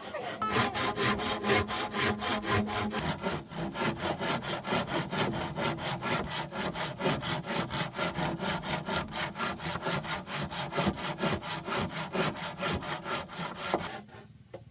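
Hand saw cutting through wood with quick, even back-and-forth strokes that stop near the end.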